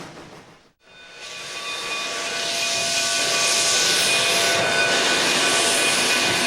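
Narrow-gauge steam locomotive venting steam: a loud, steady hiss with faint steady tones running through it, rising in after a brief drop-out about a second in.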